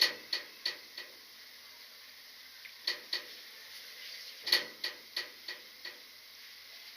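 A series of short, sharp clicks in three quick runs, about three a second: four at the start, two about three seconds in, and five more after about four and a half seconds, over a faint steady hiss.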